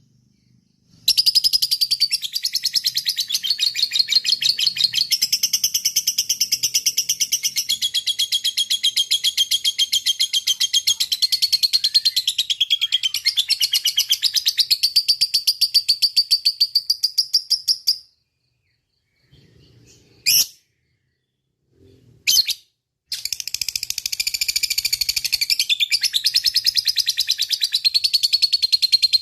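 Lovebird 'ngekek panjang': a long, rapid, unbroken chattering trill that runs for about seventeen seconds, stops, gives two short single calls, then starts up again for the last six seconds.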